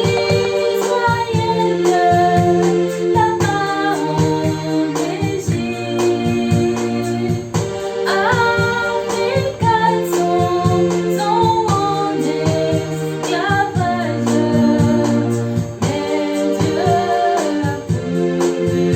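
A gospel worship song: a woman singing a gliding melody over sustained organ or keyboard chords and a steady beat.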